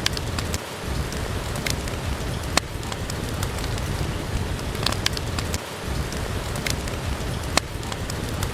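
Steady heavy rain with a low rumble underneath, and an occasional sharp crackle from a wood fire every couple of seconds.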